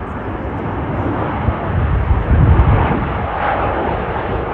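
Aircraft engine noise, a dense rumble that swells to its loudest about two and a half seconds in, then eases slightly.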